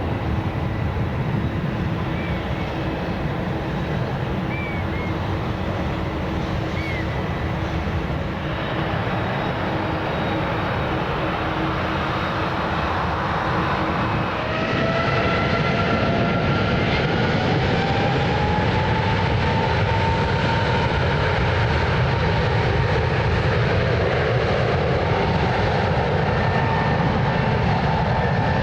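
Jet airliner engines running at takeoff power. First comes an Emirates Airbus A380-800 with its four engines. About halfway through, a sudden change brings a louder United Boeing 777-200ER with its two engines, carrying whining fan tones that slowly rise in pitch.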